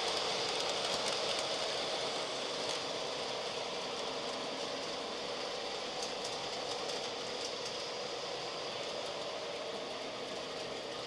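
Model train running along its track: a steady whir with a few faint clicks, slowly growing fainter.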